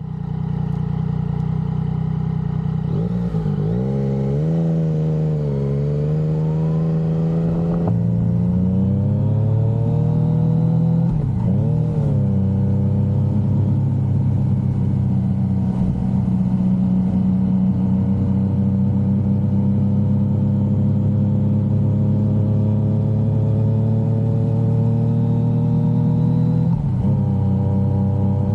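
Yamaha XSR900's inline-three engine running under way, its note rising with speed and dipping briefly at several gear changes, with a long slow climb in pitch through the middle.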